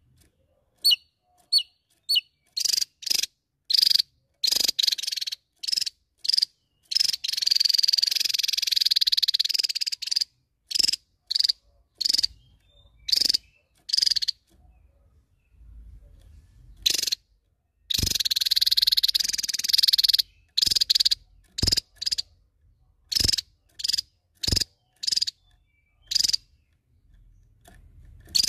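Javan tesia calling: short, sharp high notes repeated at an irregular pace, broken twice by a buzzy trill lasting two to three seconds, about seven seconds in and again near eighteen seconds.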